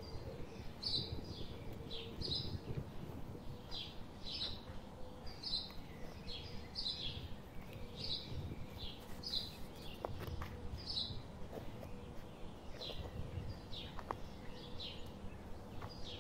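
A small bird chirping over and over, short high chirps about once or twice a second, over a low rumble.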